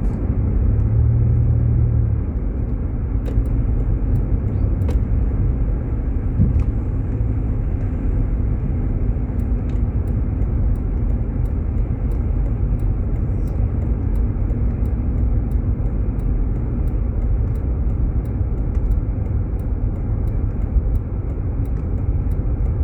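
Steady low road and tyre rumble heard inside a moving Jeep Grand Cherokee, with faint, evenly spaced ticks in the second half.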